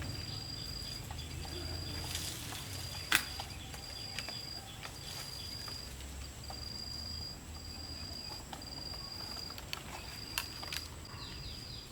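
An insect, cricket-like, trilling steadily in a high note that pulses on and off in even beats. A single sharp knock comes about three seconds in, and quick chirps come near the end.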